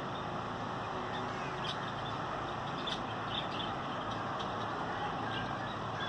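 Short scattered bird calls, a few at a time, over a steady background of outdoor noise.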